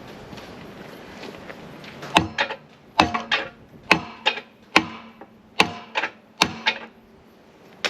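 Hammer blows on metal, about one heavy strike a second each followed by a lighter hit, with a brief metallic ring, as a stuck bearing is driven at on a mower; the bearing will not come out.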